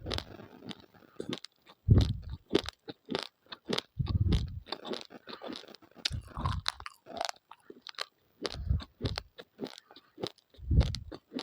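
A person chewing raw, uncooked rice grains: dense, irregular sharp crunches, with a heavier low crunch about every two seconds as the grains are bitten down on.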